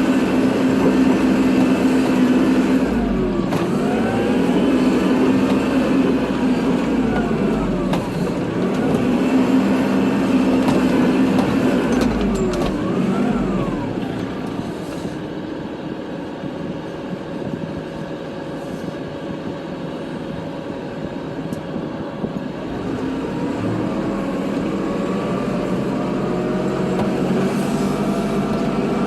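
Kubota tractor's diesel engine running while plowing snow, its pitch rising and falling again and again as the load and throttle change. It eases off and runs quieter for several seconds past the middle, then picks up again near the end.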